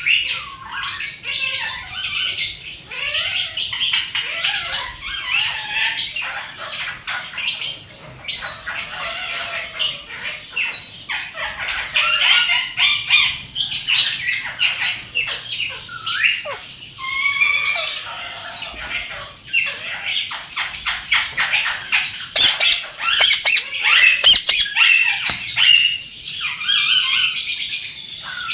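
Parrot chattering nonstop: a dense run of rapid chirps, short squawks and gliding calls.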